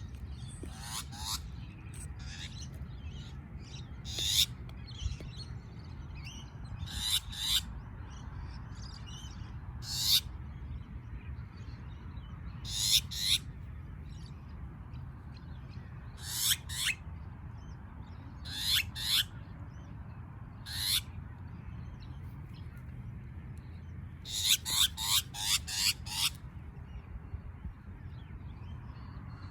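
A bird making harsh, scolding threat calls: short calls that drop in pitch, coming singly or in quick runs of two or three, with a rapid run of about six near the end. A steady low rumble runs underneath.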